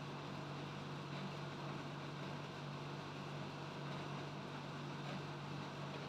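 Steady low hum over a constant hiss, with no distinct events.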